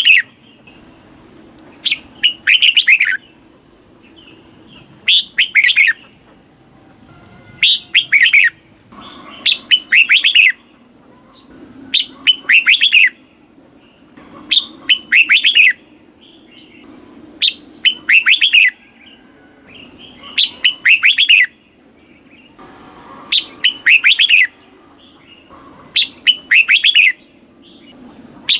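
Red-whiskered bulbul singing its loud chirpy song. Short phrases of quick falling notes, each about a second long, repeat every two to three seconds.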